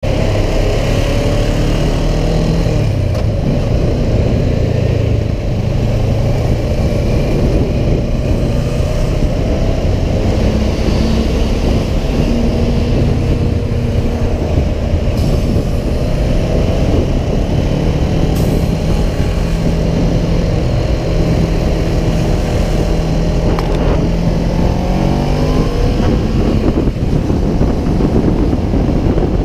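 Motorcycle engine running at steady freeway revs, mixed with the noise of the passing traffic. The engine note drops about three seconds in and climbs again near the end.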